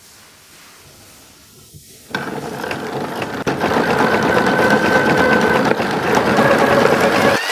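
Wooden model V8 engine mechanism set running about two seconds in: a fast, dense mechanical clatter of wooden parts that grows louder over the next two seconds and then holds steady.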